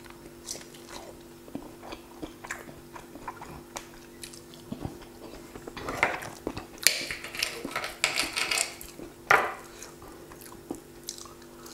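A person chewing a bite of crisp, pan-fried cauliflower flatbread, with small crunches and mouth clicks over a faint steady hum. From about six seconds in, the knife and the plate are handled with a crackling stretch, ending in a sharp knock a little after nine seconds.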